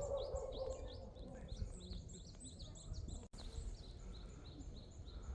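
A small bird singing a fast run of short, high repeated chirps, about four or five a second, broken by a brief dropout just after three seconds.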